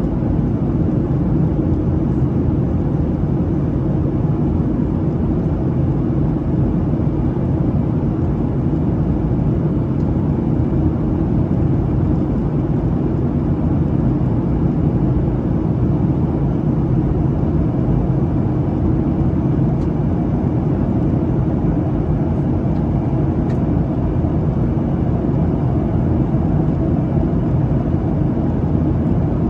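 Steady engine and airflow noise inside the cabin of a Boeing 737-700 in flight after departure, with its CFM56-7B engines under power. It is an even, low rumble with no change.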